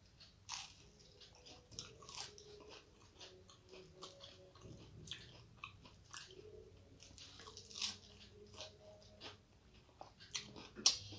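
Close-up chewing and biting of a crisp beguni, a batter-fried eggplant fritter, giving many short crunches throughout.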